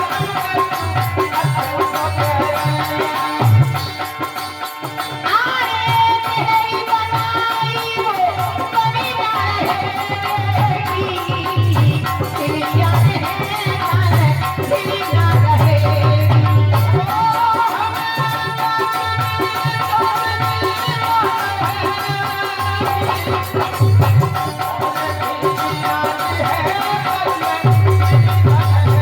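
North Indian folk music: a steady, loud drum beat with rattling percussion under a melody line that bends in pitch.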